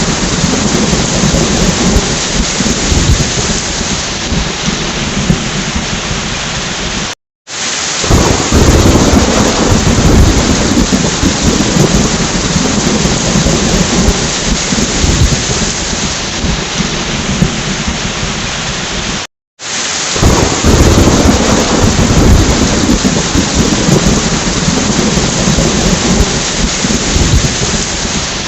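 Steady heavy rain with thunder rumbling. The sound cuts out for a split second twice, about 7 and 19 seconds in, and a loud, deep rumble of thunder swells right after each gap.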